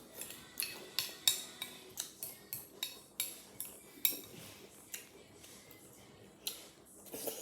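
Spoon clinking and scraping against a cereal bowl in quick repeated taps, about three a second for the first four seconds, then a couple more near the end, scooping up the last of the cereal and milk.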